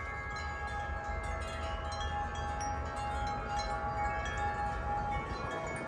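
Wind chimes ringing in the wind: several metal tubes struck lightly again and again, their tones ringing on and overlapping. A low wind rumble sits underneath.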